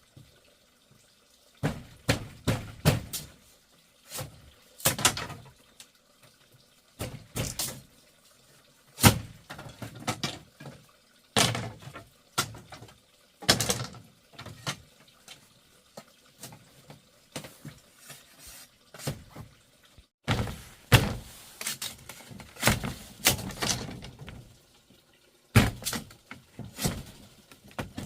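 Irregular knocks and thuds from hands-on building work, single or in quick runs of two or three, a second or two apart.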